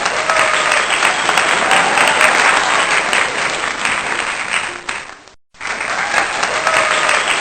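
A crowd applauding, with voices mixed in; the sound drops out briefly about five and a half seconds in, then resumes.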